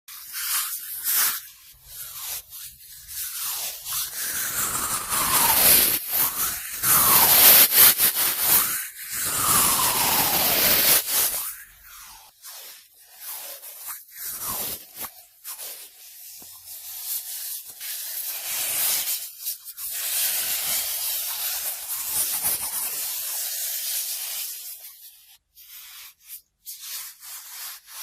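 Cotton swab swirling and rubbing inside the ear of a binaural microphone, heard as close, scratchy rustling in uneven strokes. Several short downward-sliding squeaks come in the loudest stretch, about a fifth to a third of the way in.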